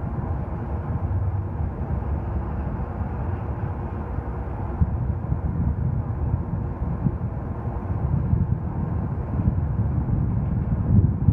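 CSX freight train cars rolling past: a steady low rumble of wheels on rail with occasional irregular knocks.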